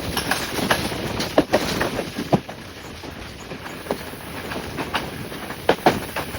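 Class S10 diesel train running, its wheels clattering over the rails with irregular sharp clicks and knocks over a steady rumble.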